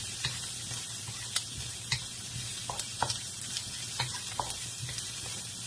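Baby octopus and onion sizzling in oil in a nonstick wok, stirred with a wooden spatula that knocks and scrapes against the pan at irregular moments.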